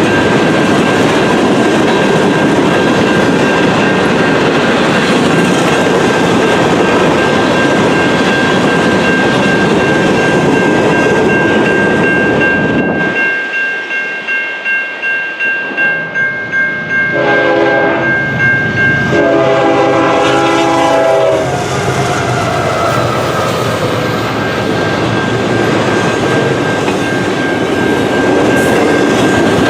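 A train running past at close range with a loud, steady rumble of wheels on rail. The rumble eases about halfway through, and the train's horn sounds twice in two blasts. Then the loud rolling rail noise picks up again.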